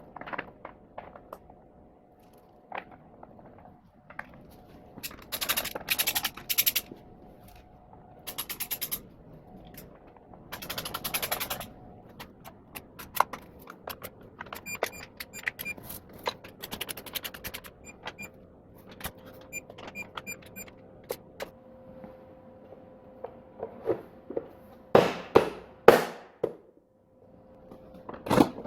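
Hand tools working on engine parts: several short runs of rapid ratchet clicking, as bolts are run down, with scattered metal clinks and a few louder knocks near the end.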